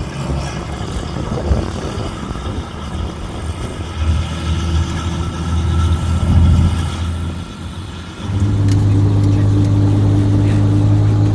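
Robinson R44 helicopter running on the ground, its Lycoming six-cylinder engine and rotors making a steady low drone. About eight seconds in it steps up into a louder, steadier hum.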